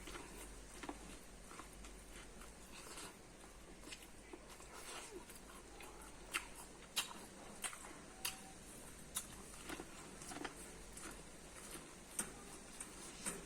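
Close-up biting and chewing of corn, with small sharp crisp clicks that come more often and louder from about six seconds in.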